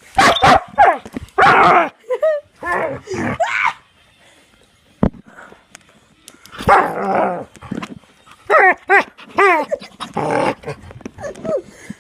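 A dog barking and yelping excitedly in repeated bursts, some of them short rising yips, with pauses between the volleys. A single sharp click is heard about five seconds in.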